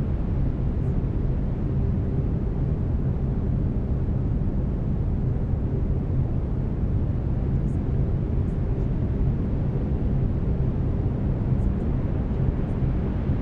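Steady brown noise: a deep, even rumbling hiss with no change. Faint low steady tones of binaural delta-wave beats sit underneath.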